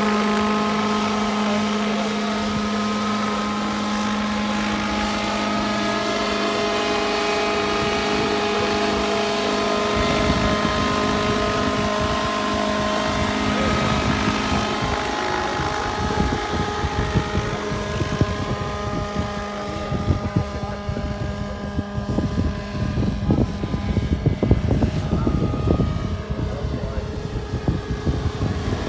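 GT15HZ gas engine of a radio-controlled AS350 Écureuil model helicopter, running at a steady, even pitch. About a third of the way in a rough rushing noise joins it. From about halfway the engine pitch wavers up and down and the loudness fluctuates.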